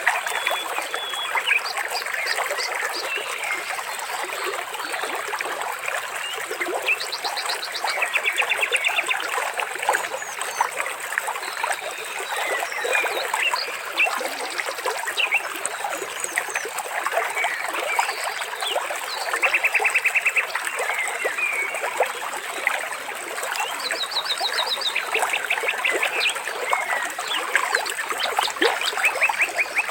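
Water trickling steadily under many short bird chirps, with several rapid trills of evenly spaced high notes, each lasting about a second.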